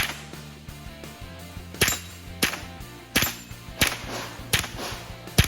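Armscor M22 .22 LR rifle firing six shots in steady succession, about one every two-thirds of a second.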